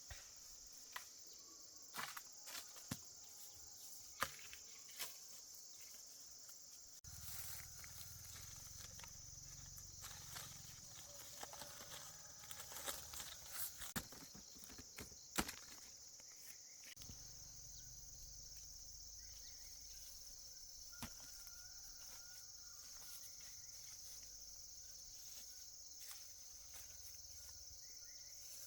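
Faint steady high-pitched insect chorus, with scattered light clicks and knocks over it.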